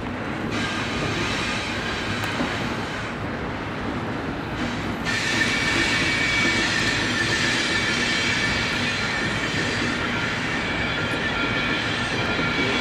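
Double-stack container train rolling past close by, its steel wheels running on the rail with a steady rumble. From about five seconds in, a high-pitched wheel squeal sounds over the rumble.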